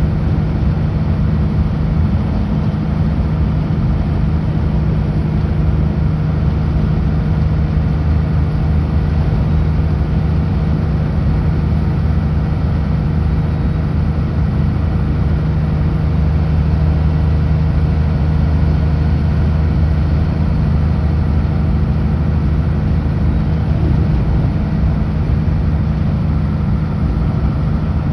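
Kenworth W900L semi truck's diesel engine droning steadily at highway speed, with road and tyre noise, the pitch holding even throughout.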